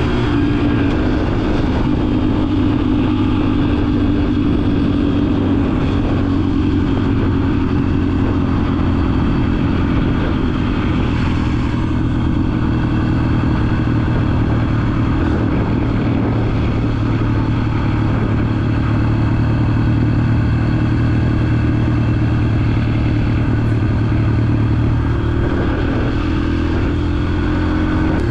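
Dirt bike engine running steadily at a fairly constant pitch.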